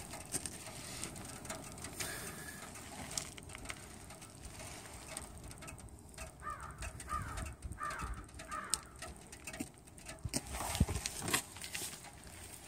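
Faint bird chirps, a cluster of short calls, over low outdoor background noise, with a few light knocks or scuffs near the end.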